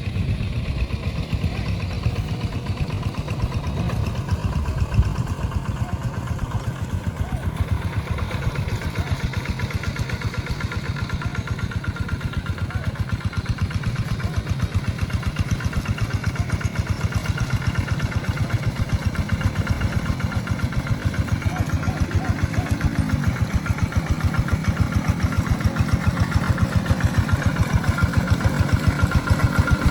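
Tractor engine running steadily with a fast, even beat, getting louder over the last several seconds.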